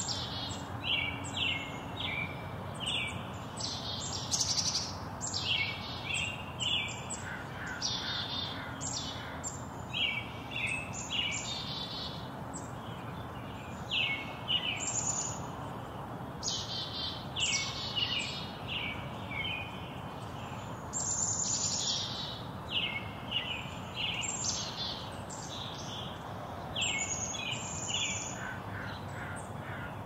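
Small songbirds chirping and trilling throughout in many short, quick, high calls that overlap, over a steady low background hum.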